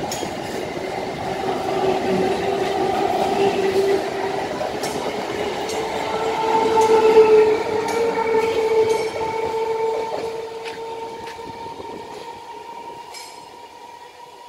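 Electric multiple-unit suburban local train running through a station at speed: coaches rumbling past with a steady whine and scattered clicks from the wheels over the rail joints. It is loudest as the last coach passes about seven seconds in, then fades steadily as the train moves away.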